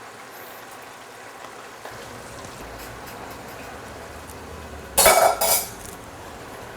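Cookware clattering twice in quick succession about five seconds in, over a faint steady kitchen background.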